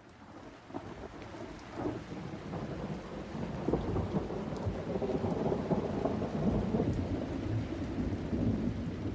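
Thunderstorm: steady rain falling with low rumbles of thunder, growing louder throughout.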